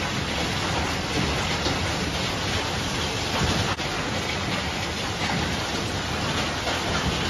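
Heavy thunderstorm rain mixed with hail pouring down steadily on the yard: a dense, even hiss.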